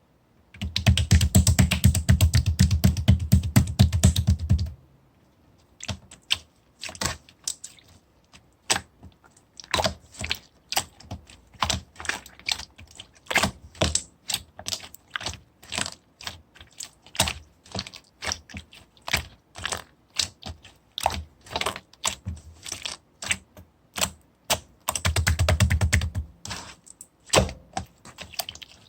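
Slime squished and pressed by hand, making clicky, crackling pops. There is a dense run of rapid crackles for the first few seconds, then separate pops about two to three a second, and another dense run near the end.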